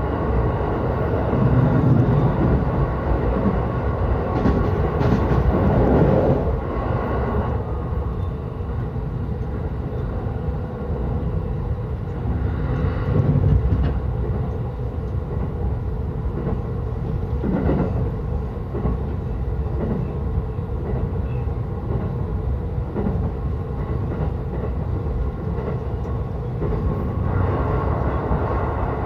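Yokosuka Line electric commuter train running between stations, a steady rumble of wheels on rails with a faint steady whine, heard from inside the carriage, swelling briefly a few times.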